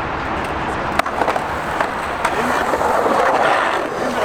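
Skateboard wheels rolling on concrete, with sharp clacks of the board about one second in and again a little after two seconds.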